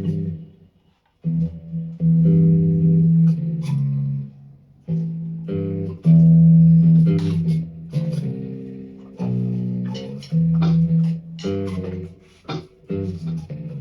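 Squier Precision Bass electric bass played through an Aroma TDX15 amp: a riff of plucked notes, each held for up to a second or so, with a brief stop about a second in.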